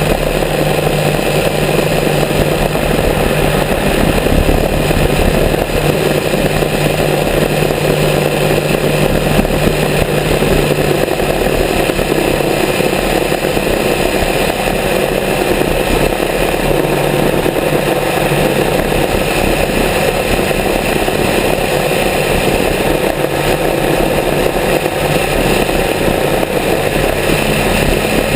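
Grumman G44 Widgeon's twin piston engines running steadily at a constant loud level.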